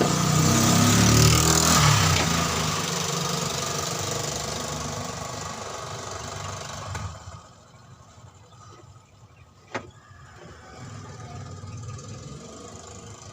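A motor vehicle engine running, loudest about a second in, then fading and dropping away sharply about seven seconds in. A single sharp click follows near ten seconds.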